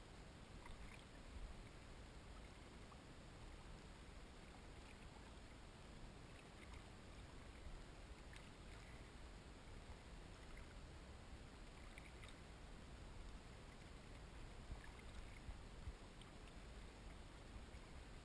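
Faint water sounds from a kayak on the water: soft, scattered drips and small splashes over a low rumble.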